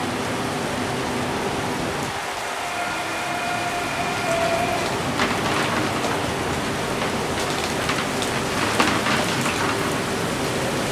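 Heavy rain falling in a steady hiss, with the faint steady whine of a double-deck electric train passing slowly under its overhead line. From about five seconds in comes a run of sharp clicks.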